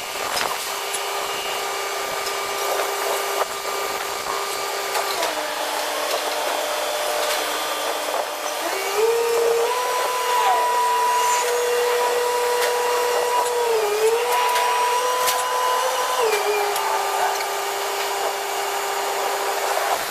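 Crane hoist motor whining steadily. Its pitch drops about five seconds in, climbs higher about nine seconds in, dips briefly and settles back lower near the end, following changes in hoist speed.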